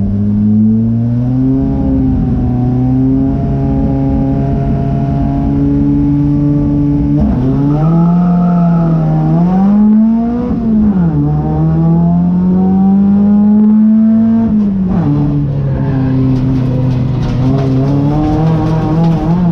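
A race car engine running hard under load, holding fairly steady revs, then dropping sharply in pitch about seven seconds in. It rises and falls through the middle, and drops again about fifteen seconds in, like lifts and gear changes.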